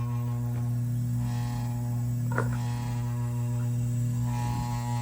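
Steady electrical mains hum from running equipment, unchanging throughout, with one brief click about two and a half seconds in.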